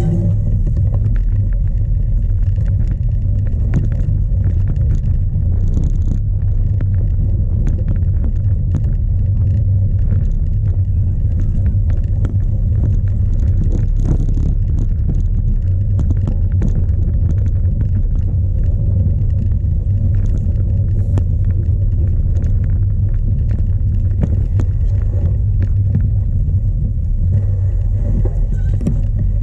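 Strong wind buffeting the microphone of a camera mounted on a cyclocross bike, a steady low rumble, with frequent short rattles and knocks from the bike riding over rough ground.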